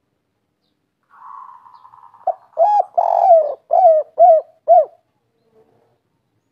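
Spotted dove (tekukur/derkuku) singing its 'kuk 3' song: a soft purring lead-in, then a run of about five loud cooing notes that rise and fall, with the longest one in the middle.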